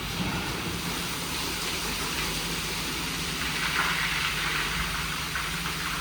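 WashTec SoftCare² Pro rollover car wash running: a steady low hum from its machinery under an even hiss of water spray, with the spray growing louder for a second or so past the middle.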